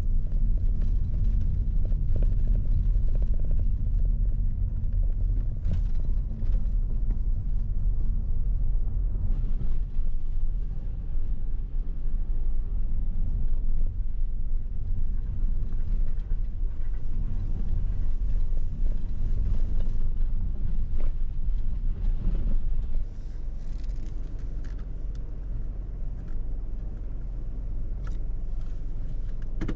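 Steady low rumble of a car on the move, quieter from about 23 seconds in.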